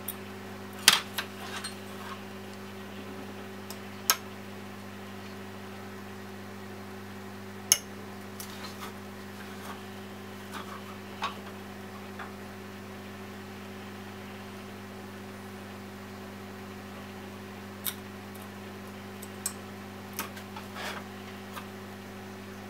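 Scattered sharp clicks and taps from small tools and plastic and metal laptop parts being handled during disassembly, the loudest about a second in, then near four and eight seconds, with a cluster of lighter clicks near the end, all over a steady low hum.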